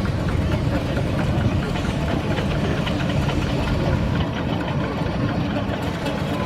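Steam traction engine on the move: a steady low mechanical rumble with a rapid clatter of working parts.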